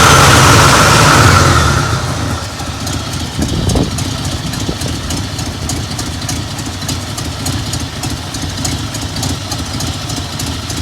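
1982 Ford F100 pickup's engine running at raised revs, then dropping back about two seconds in to a steady idle.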